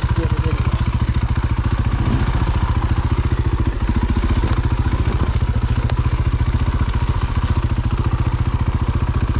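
Dirt bike engine running steadily at low revs, an even rapid pulse of firing strokes.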